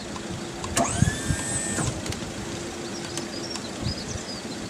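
Crane motor lowering a boat engine on its hoist: a whine that rises in pitch about a second in, holds for about a second, then cuts off, over a low hum and a few knocks.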